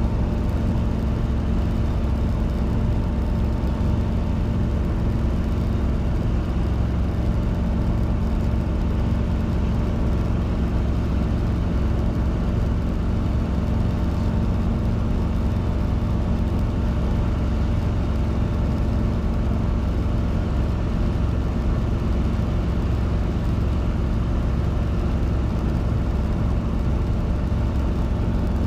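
Robinson R22 helicopter's engine and rotors running steadily, heard from inside the cockpit: an even drone with strong low hums that holds the same level throughout.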